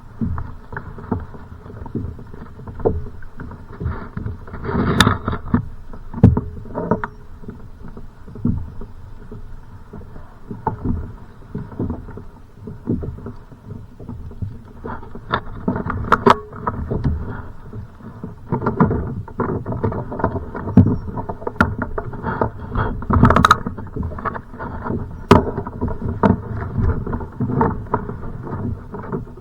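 Choppy, wind-driven water splashing and slapping irregularly against a kayak's hull, with frequent sharp slaps.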